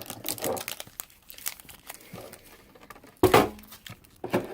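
Foil Pokémon booster pack wrappers crinkling as they are handled, with a louder bump about three seconds in.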